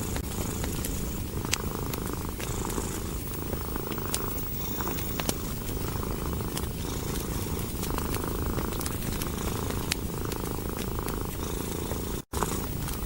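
A cat purring steadily and low, swelling and easing with each breath, over the scattered small pops of a crackling wood fire. The sound cuts out for an instant near the end.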